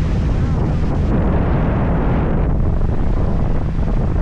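Sightseeing boat's engine running with a steady low hum, under wind on the microphone and rushing water noise that swells between about one and three seconds in.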